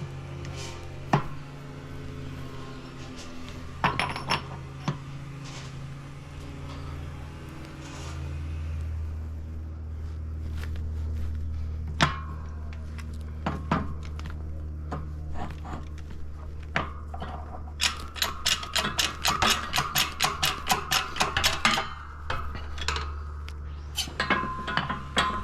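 Metal transmission parts clinking and knocking on a workbench as a Honda K-series gearbox is put back together, with a fast run of metallic clicks, about six a second, for several seconds near the end.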